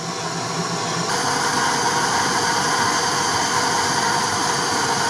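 Vehicle engine running steadily at idle. About a second in the sound steps up louder and brighter, with a steady whine on top.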